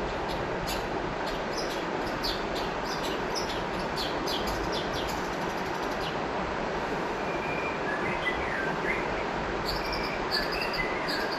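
River water flowing steadily, with birds calling over it: quick high chirps through the first half, then a few gliding whistled notes and more chirps near the end.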